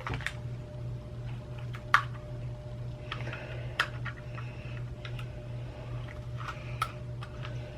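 Scattered light clicks and taps, a second or two apart, from small computer-mouse parts being handled, over a steady low hum.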